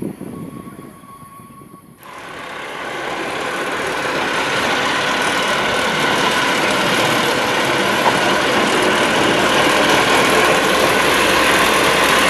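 Narrow-gauge railway train running. The sound starts abruptly about two seconds in, grows louder over the next couple of seconds, then holds steady.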